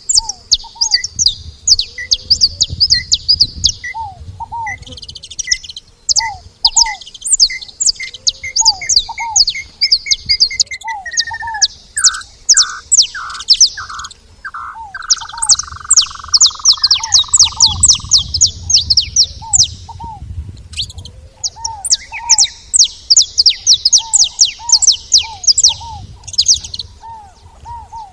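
A flock of saffron finches chattering with rapid, high chips. Another bird's lower, repeated notes run through it, and about ten seconds in an accelerating series of notes slides into a lower descending trill that lasts several seconds.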